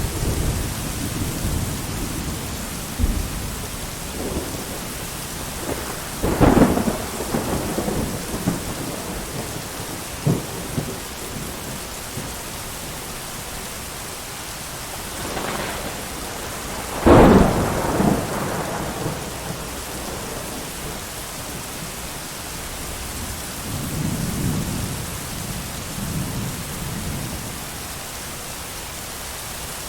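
Steady heavy rain with thunder: a sudden clap about six seconds in, the loudest peal about seventeen seconds in, and softer low rumbles near the end.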